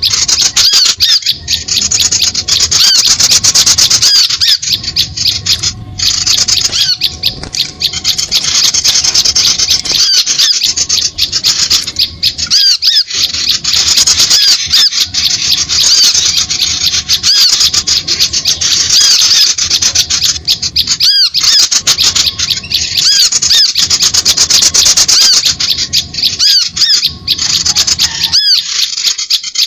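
Bird-trapping lure call (suara pikat): a dense, unbroken chatter of rapid, high-pitched chirps and squeaks from small birds, played loud to draw other birds to lime sticks. The chatter pauses only briefly a few times.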